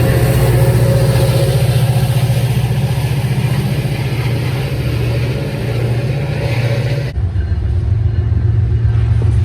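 Train passing close by, with a steady, loud low diesel locomotive hum under rolling wheel and rail noise. About seven seconds in the sound changes abruptly to a lower, duller rumble without the high noise.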